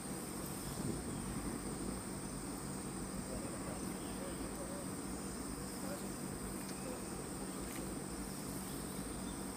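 Insects trilling steadily, a constant high-pitched drone, over a low rumbling background.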